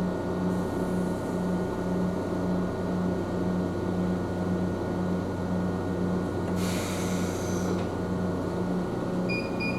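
Ohmi Railway train running, heard from inside: a steady low hum that pulses about twice a second. A short hiss comes about seven seconds in, and a brief beep near the end.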